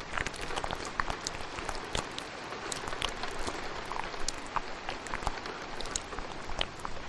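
ASMR mouth sounds, many small wet clicks and pops coming irregularly, layered over the steady hiss of heavy rain.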